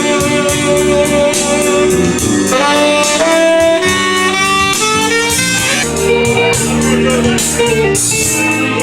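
Band music with a steady beat and a saxophone playing the melody in a jazzy blues style.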